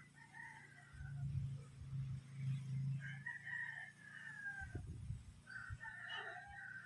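Roosters crowing, three long crows spaced a few seconds apart, over a low rumble of wind gusting on the microphone.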